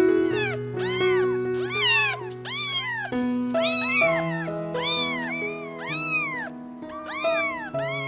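Domestic cat meowing in a rapid series of short meows, each rising then falling in pitch, over background music with sustained notes.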